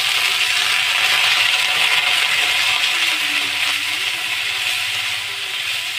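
Diced carrots sizzling loudly in hot ghee in a steel kadhai with cumin, green chillies and curry leaves, as they are stirred with a metal spatula.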